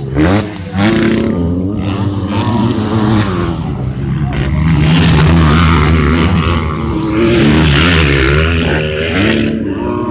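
Motocross motorcycle engines revving, their pitch repeatedly rising and falling, loudest around the middle.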